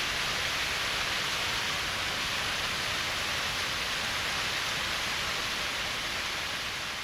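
Small waterfall pouring steadily over a rock ledge under a stone overhang: an even, unbroken rush of water, beginning to fade out near the end.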